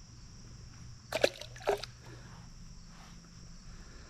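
Two brief splashes of creek water about half a second apart, over the steady chirring of insects.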